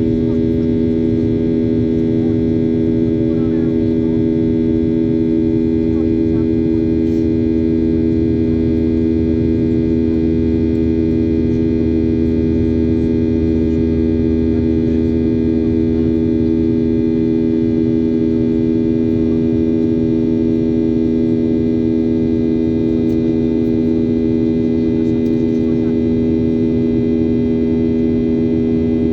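Steady cabin drone of a Boeing 737-800 in flight: the hum of its CFM56 jet engines, with several steady tones over a low rush of air noise, unchanging in level.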